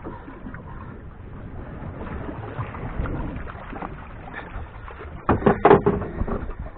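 Steady wind-and-water noise around a small fishing boat, then a quick run of loud knocks and rattles about five seconds in.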